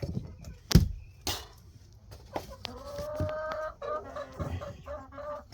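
Chickens clucking, with drawn-out hen calls from about halfway through. Two sharp knocks come in the first second and a half, the first the loudest sound.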